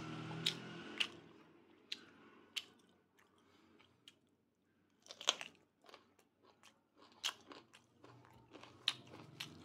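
Close-up chewing of crunchy food, with sharp, irregular crunches and bites throughout, a dense cluster about five seconds in.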